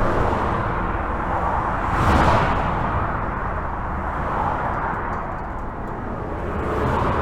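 Highway traffic heard from under a bridge: a continuous rush of tyres and engines over a low rumble, swelling as vehicles pass. The loudest pass comes about two seconds in.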